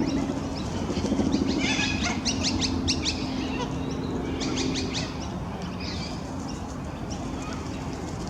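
Birds chirping in quick bunches of short high calls, busiest between about two and three seconds in and again near the middle, over a steady low hum.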